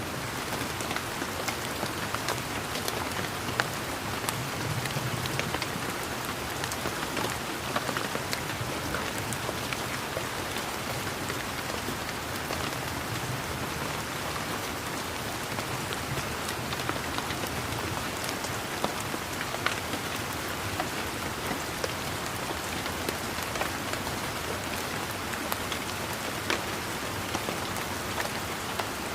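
Steady rain falling, a constant hiss with many scattered sharper drop hits.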